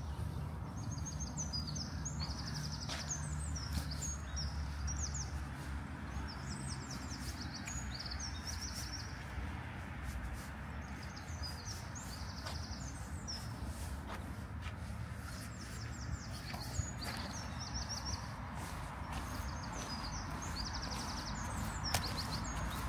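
A songbird singing short, high, trilled phrases, repeated every second or two, over a steady low rumble.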